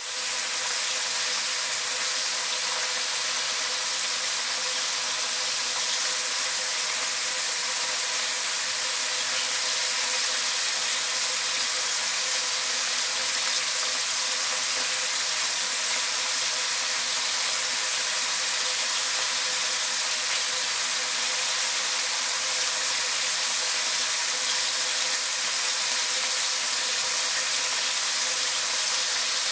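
Sliced pork and dried red chilies sizzling steadily in hot oil in a wok.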